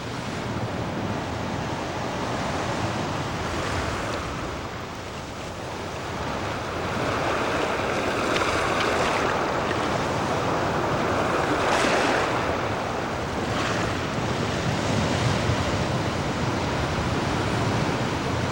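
Wind and breaking surf: a steady rushing noise with wind buffeting the microphone, swelling louder about seven seconds in.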